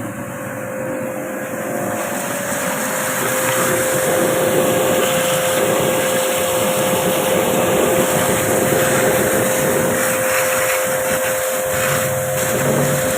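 Washing machine running steadily: a constant whine over a broad mechanical noise, growing louder over the first three or four seconds and then holding.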